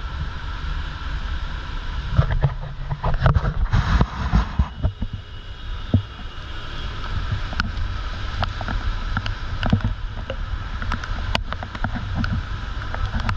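Typhoon wind buffeting a GoPro microphone, with rain noise and scattered sharp ticks; the gusts are loudest a few seconds in.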